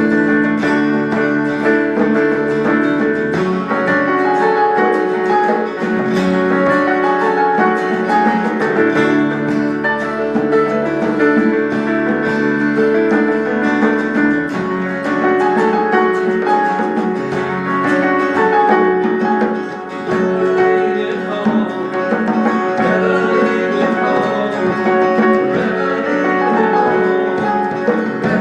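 Instrumental music led by plucked guitar, a steady stream of picked notes over sustained chords.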